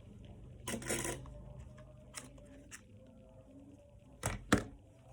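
Hands handling a boxed package: a brief scraping rustle about a second in, a few light clicks, then two sharp knocks close together near the end.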